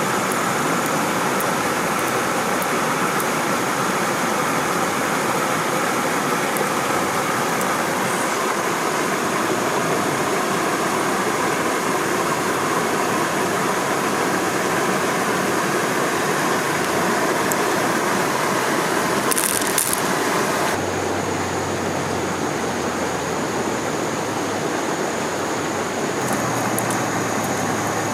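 Steady rush of stream water below a waterfall, with a few faint clicks; the rush changes character abruptly about three quarters of the way through.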